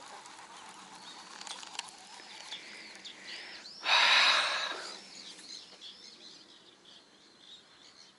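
Small birds chirping repeatedly, with one loud rush of noise lasting about a second around four seconds in.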